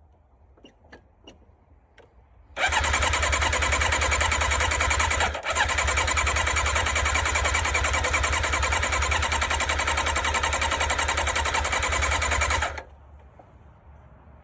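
A Yamaha sports bike's electric starter cranking the engine in a steady even rhythm for about ten seconds, with a brief break about three seconds after it starts, the engine never catching; the owner suspects fuel is not getting to it.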